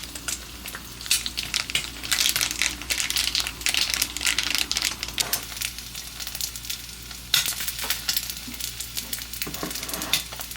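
Food sizzling and crackling in a frying pan while being stirred. The crackle gets busier about two seconds in and again past the middle.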